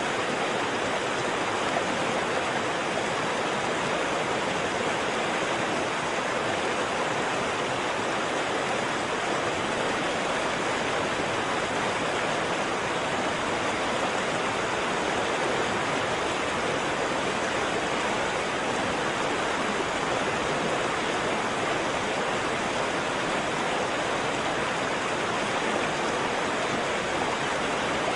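Waterfall: water falling and splashing in an unbroken, steady rush.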